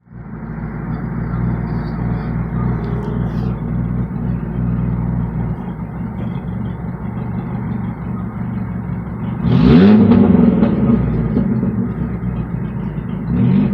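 Straight-piped Chevy Cavalier engine, with no muffler, idling steadily. About ten seconds in it is revved once, the pitch rising sharply and dropping back to idle, and a second rev starts near the end.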